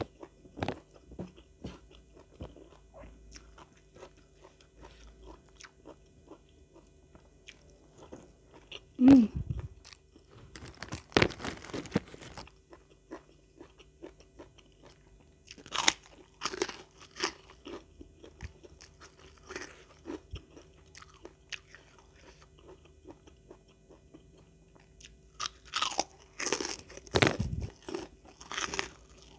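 Close-miked eating: chewing with several clusters of crisp crunching bites, about eleven, sixteen and twenty-six seconds in. A brief low vocal noise from the eater about nine seconds in is the loudest moment.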